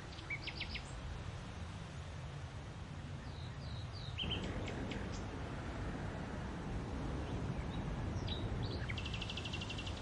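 Small birds chirping: a few short high chirps in the first second and again around the middle, and a quick rattling trill near the end. Underneath is a steady low background rumble that gets louder about four seconds in.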